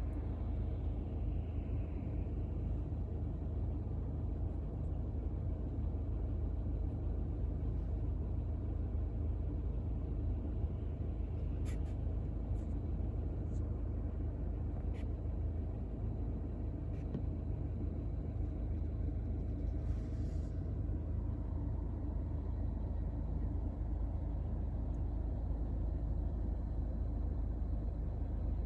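Steady low rumble, with a few faint clicks near the middle.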